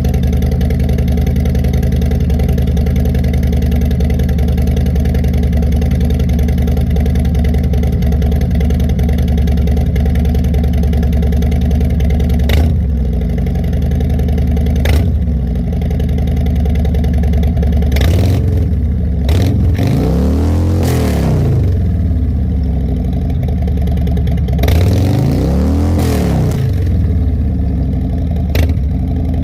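Harley-Davidson Milwaukee-Eight 114 V-twin idling through Sharkroad 4.5-inch exhausts, then revved: two quick throttle blips about halfway through, two longer revs that rise and fall in pitch, and a last sharp blip near the end.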